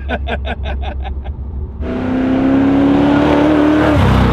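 Two men laughing in the car cabin over the low hum of the engine; then, about two seconds in, the Holden VK Commodore's 308 (5.0 L) V8 drives past at speed with tyre noise, its note rising as it accelerates and dropping sharply in pitch as it passes near the end.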